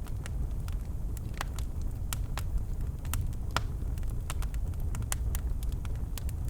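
Birch logs burning in a fireplace, crackling and popping in sharp, irregular snaps over a steady low rumble.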